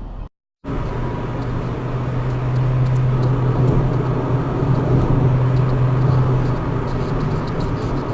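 A car driving, with engine and road noise and a steady low hum that fades out near the end, after a brief break in the sound at the start.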